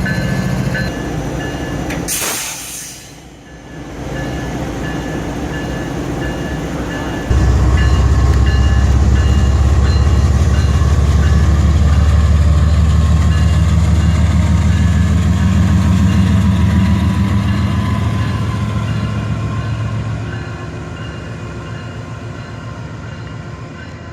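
GE diesel freight locomotives running during a switching move. There is a short sharp hiss about two seconds in. About seven seconds in the engine sound suddenly jumps much louder and holds steady, then eases off near the end.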